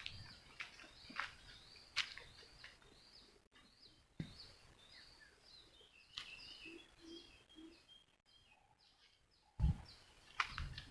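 Birds chirping repeatedly in short high calls, with a few scattered sharp clicks and one dull thump near the end.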